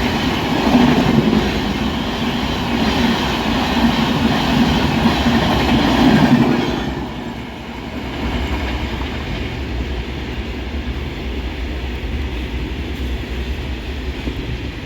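Indian Railways express train passing at speed: coach wheels clattering over the rail joints in a clickety-clack. About six and a half seconds in the clatter drops to a quieter, steady low rumble.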